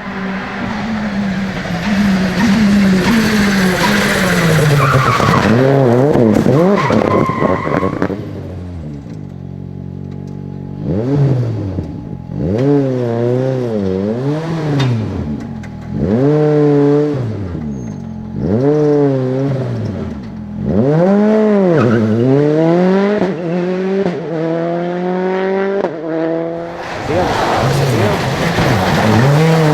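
Rally car engines driven hard on a stage, their pitch climbing and dropping again and again with throttle and gear changes, and tyres squealing for a few seconds near the start.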